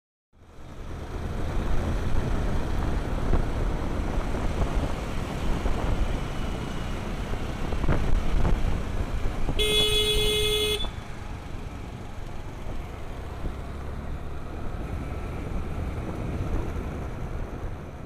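Road and traffic noise heard while riding, with a vehicle horn honking once for about a second partway through.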